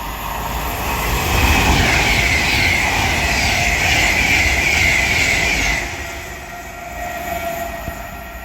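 Avanti West Coast Class 390 Pendolino electric train passing through the station at speed without stopping. The rush of the train builds over the first second or so, stays loud for about four seconds, then drops off suddenly as the train clears, leaving a fading tail.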